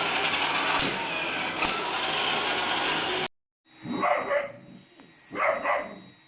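A robot vacuum running with a steady whirring hiss, which cuts off abruptly. After a brief silence a dog barks twice, each bark about half a second long.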